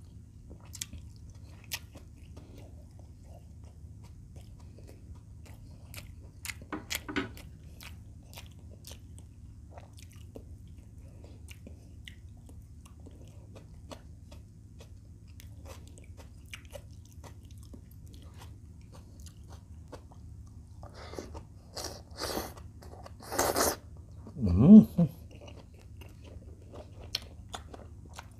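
Close-miked chewing and mouth sounds of a person eating fried chicken, rice and leafy greens by hand: soft smacking and small clicks, with a louder run of chewing and biting about three-quarters of the way through, over a low steady room hum.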